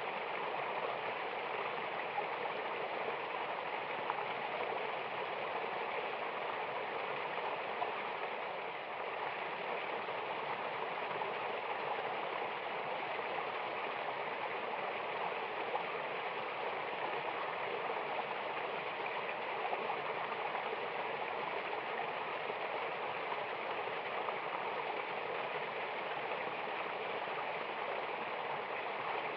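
Mountain waterfall: a steady, even rush of falling and flowing water.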